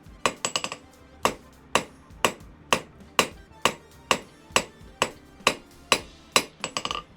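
Hand hammer striking hot 5/16 in round steel bar on an anvil, about two blows a second, each blow ringing briefly, dressing the edges of a small forged heart. There are quick runs of light taps near the start and again near the end.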